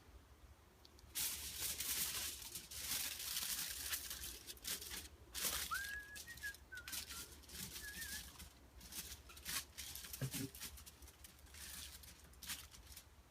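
Irregular hissing and crackling starts about a second in and runs almost to the end. A short whistled bird call rises and wavers in the middle.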